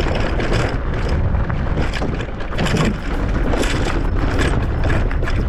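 Wind buffeting the microphone of a moving motorcycle, over the motorcycle's engine running steadily.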